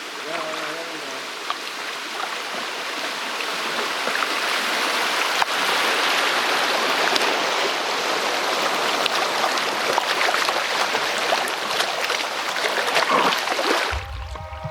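Flood-swollen small river rushing and splashing steadily, growing louder over the first several seconds. Music starts near the end.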